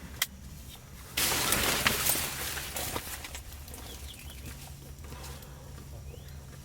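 A single sharp crack, then about a second later a loud burst of crackling, rustling noise that dies away over about two seconds.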